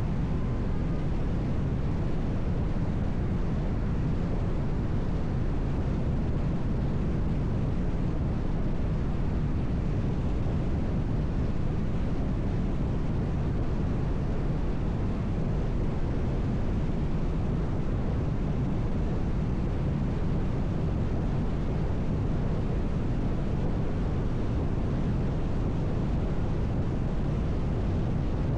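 Steady road noise of a car driving at highway speed: tyre rumble and wind, an even noise without change or distinct events.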